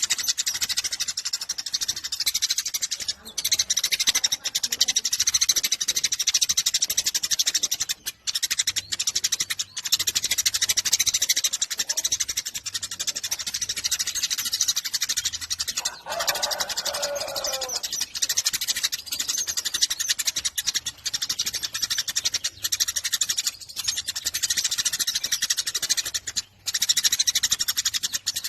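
Eurasian tree sparrow chattering in a rapid, nonstop stream of high chirps, broken only by a few short pauses. About sixteen seconds in, a lower call falls in pitch over about two seconds beneath the chatter.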